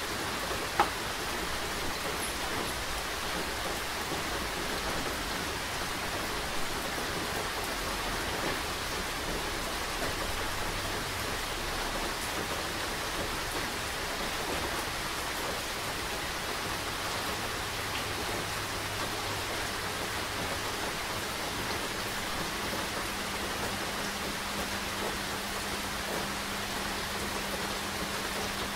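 Steady rainfall, a dense even hiss with scattered louder drips and taps, the sharpest about a second in. A faint low hum lies beneath it.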